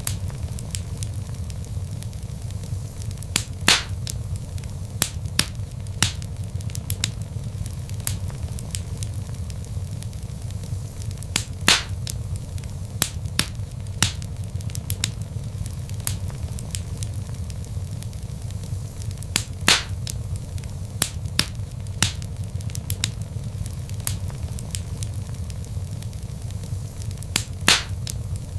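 Wood log fire crackling, with frequent sharp pops over a steady low rumble. The strongest pops come about every eight seconds.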